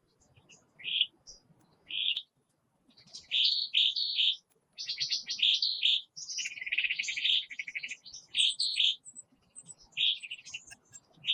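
Songbird chirping: short, high notes about once a second at first, then quicker strings of chirps and a buzzy trill in the middle.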